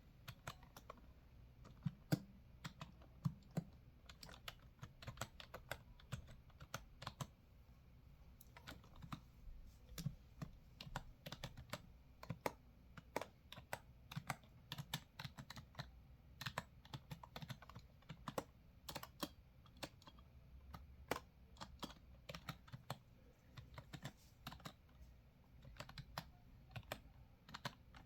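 Typing on a computer keyboard: a steady run of irregular key clicks, several a second.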